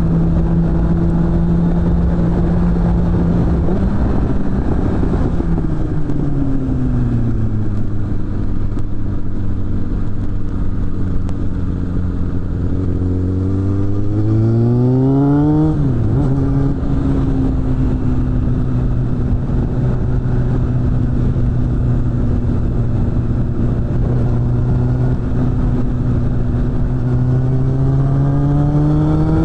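Suzuki GSF600 Bandit's inline-four engine running through a BOS aftermarket exhaust while riding. The engine note falls away about four to seven seconds in as the bike slows, climbs steeply around halfway, drops sharply at an upshift, holds steady, then climbs again near the end, over a steady rush of noise.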